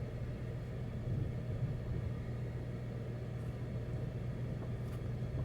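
Ford F-150 pickup's engine running with a steady low drone under load as the truck climbs a steep off-road trail in four-wheel-drive high.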